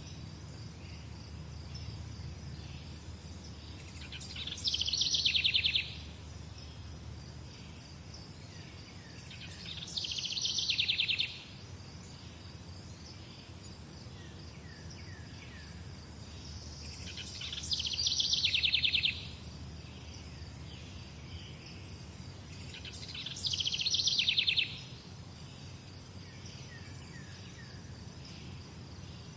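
A songbird repeating a short, rapidly trilled song four times, about every six to seven seconds. Under it run a faint steady insect hum and a low rumble.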